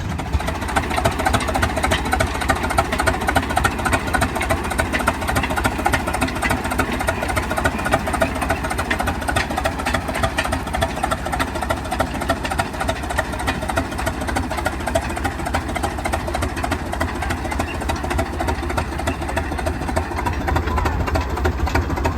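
Antique tractor engine running steadily, with a fast, even firing rhythm.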